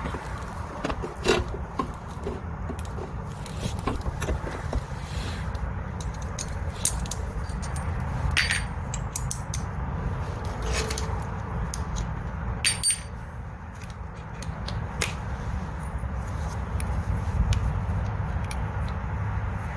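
Scattered clinks, knocks and scrapes of hand tools and parts being handled during repair work, over a steady low rumble.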